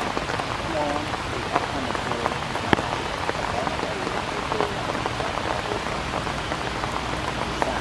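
Steady rain falling, with many individual drops tapping sharply on nearby surfaces; one tap about two and a half seconds in stands out.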